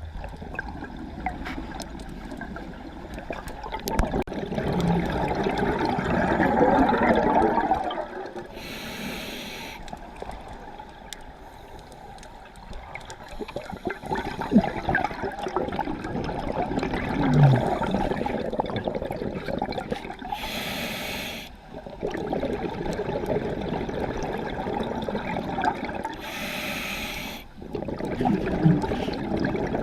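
A scuba diver breathing through a regulator underwater: a short hiss of inhalation three times, each breath followed by a long burst of bubbling exhaust bubbles.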